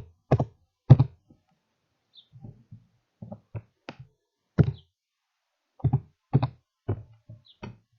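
Keyboard keys struck one at a time, about fifteen irregular, sharp thumping taps, slow and unevenly spaced: a search term being typed in.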